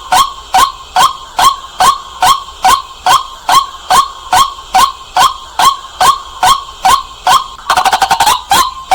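White-breasted waterhen calling: a loud, monotonous series of sharp notes, about two a second. Near the end comes a quick burst of rapid notes.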